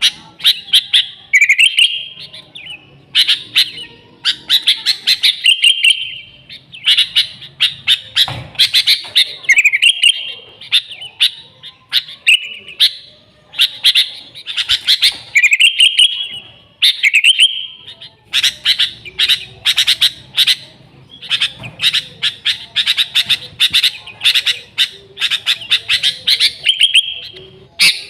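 Sooty-headed bulbul (kutilang) singing busily. Rapid runs of short chirping notes mix with brief fluty phrases, pausing for a moment every few seconds.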